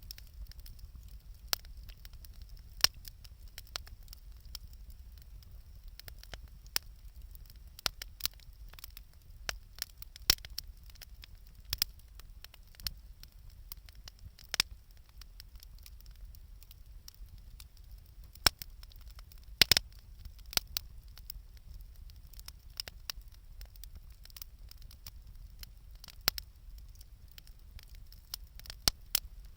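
Wood bonfire crackling: sharp, irregular pops and snaps about once or twice a second, a cluster of the loudest ones about two-thirds of the way through, over a low steady rumble.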